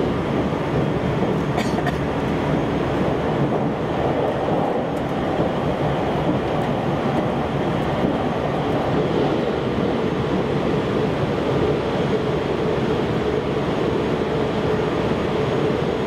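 Running noise of a JR Central 373 series electric train at speed, heard from inside the carriage: a steady rumble of wheels on rail with a faint even hum underneath.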